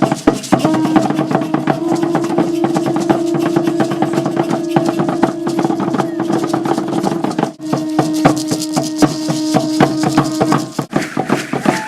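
Ceremonial rattles shaking in a fast, dense rattle, with a long steady held tone sounding over them that breaks off briefly about two thirds of the way through and stops near the end.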